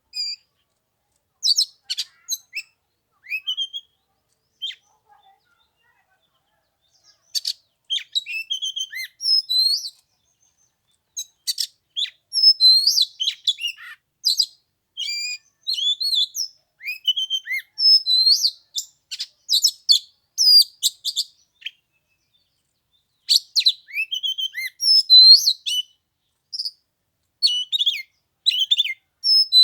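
Oriental magpie-robin singing: varied phrases of clear whistles and quick chirps in bursts, with short pauses about five seconds in and again past twenty seconds.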